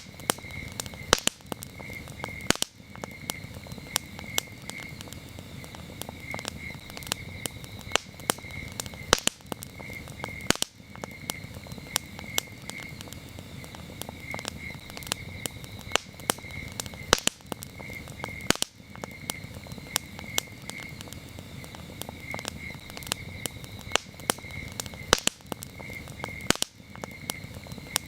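Campfire crackling with irregular sharp pops over a low, steady rustle of the burning wood, while crickets chirp in a steady pulsing rhythm.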